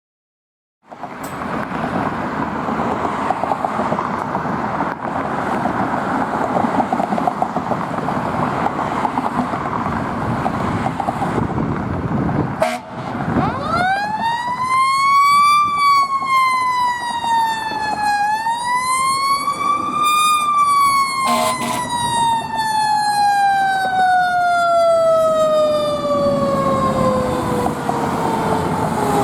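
Fire engine's siren winding up from low, rising and falling twice, then winding slowly down in one long falling wail. Under it is the steady rumble of the truck and road noise, which is all there is for the first dozen seconds.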